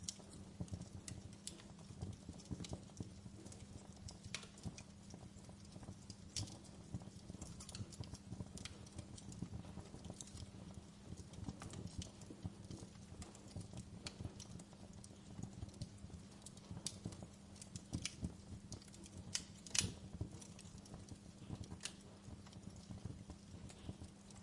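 Wood fire in a fireplace crackling, with irregular sharp pops and snaps over a low steady hum; one louder pop comes about four-fifths of the way through.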